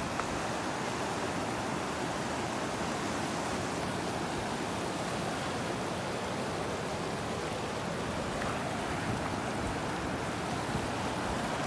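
Steady rush of turbulent water as a tidal bore surges up a river, the water rising suddenly.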